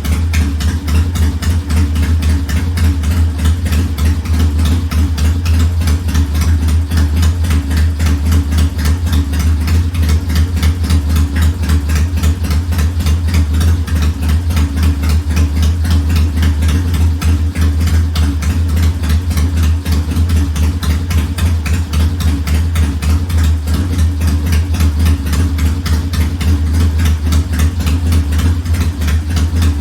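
1969 Triumph T100's 500 cc parallel-twin engine idling steadily, warming up.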